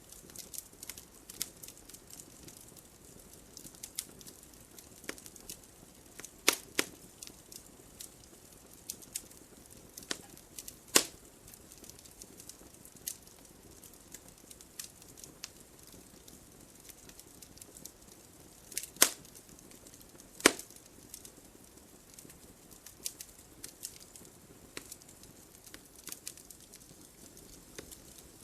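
Wood fire in a fireplace crackling steadily, with frequent small sharp snaps and a handful of louder pops over a faint hiss.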